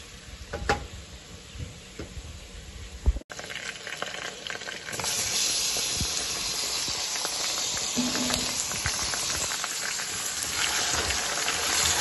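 Chopped onion and garlic sizzling in hot oil in an aluminium pressure cooker, stirred with a spatula that knocks against the pot a few times. After a short break about three seconds in, a much louder steady sizzle as raw chicken pieces fry in the oil over high flame.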